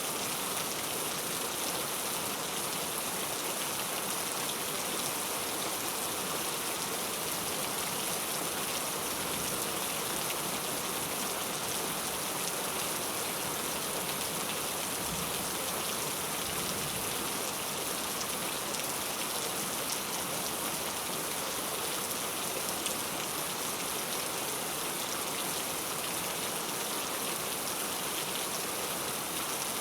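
Steady heavy rain falling on a surface, a dense even hiss of countless drops.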